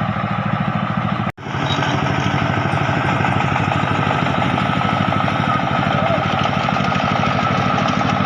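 Single-cylinder diesel engine of a two-wheel 'koyun' tractor running steadily with a fast, even chugging beat. The sound drops out for a split second about a second and a half in, then carries on unchanged.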